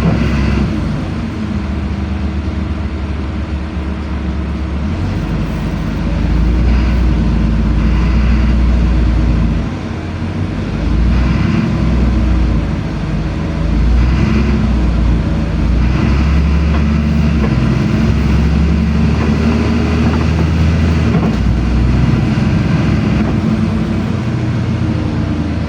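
Inside a LiAZ-5292 low-floor city bus on the move: a continuous low engine and road rumble that swells and falls back several times as the bus speeds up and slows, with a dip about ten seconds in.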